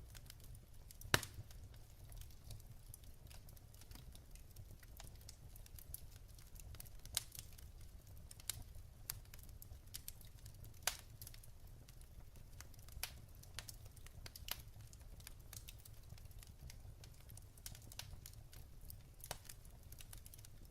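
Wood fire in a fireplace, burning logs crackling with irregular sharp pops, the loudest about a second in, over a low steady rumble of the flames.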